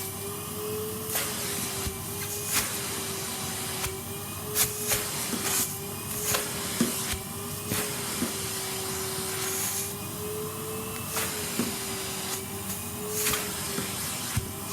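Numatic Henry cylinder vacuum cleaner running steadily with a slightly wavering motor whine, broken by frequent short clicks and rattles.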